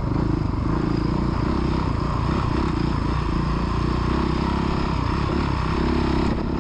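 Dirt bike engine running on a motocross track, its pitch rising and falling as the throttle is opened and eased.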